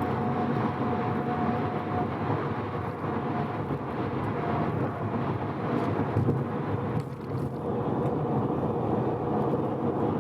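Mazda FD3S RX-7's twin-rotor rotary engine cruising steadily at expressway speed, heard together with steady tyre and wind noise. The engine is freshly rebuilt and being run in gently.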